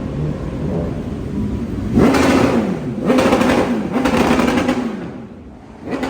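A car engine revved three times in a row, each rev about a second long and rising and falling in pitch, starting about two seconds in over the steady running of engines.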